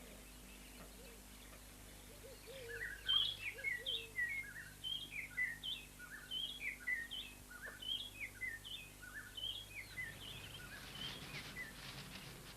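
A small bird singing a quick series of short, high, two-note chirps, about three a second. The song starts a couple of seconds in and stops about ten seconds in, over faint savanna ambience with a low steady hum.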